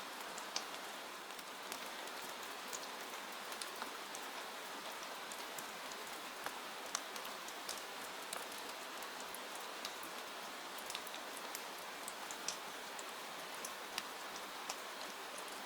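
Steady rain hiss, with many sharp ticks and pops scattered irregularly through it.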